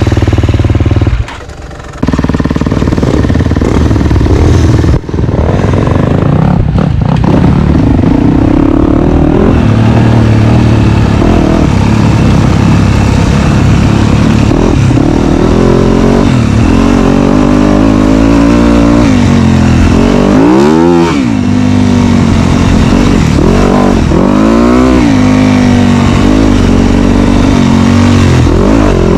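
Dirt bike engine running hard, revving up and down again and again with throttle and gear changes. The sound drops sharply for about a second near the start.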